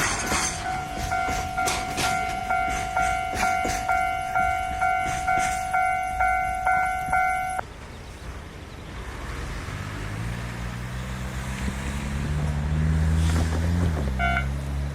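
A warning bell ringing about twice a second over clacking rail wheels, stopping abruptly about halfway through; then a diesel locomotive's engine running up steadily in pitch and dropping back near the end, with a brief high toot.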